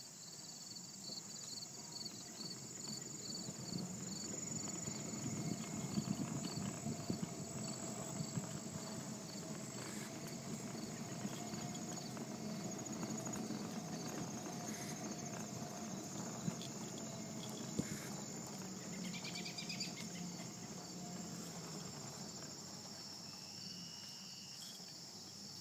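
Evening chorus of crickets and other insects chirping steadily, one of them in an even pulsing rhythm, over a low steady rumble.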